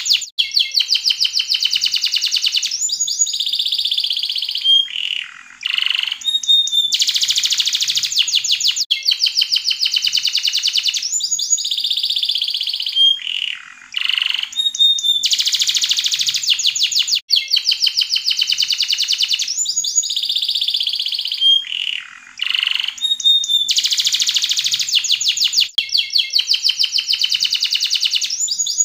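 Yellow canary singing: fast rolling trills broken by clear whistled notes and short downward sweeps, the same song phrase coming round again about every eight and a half seconds.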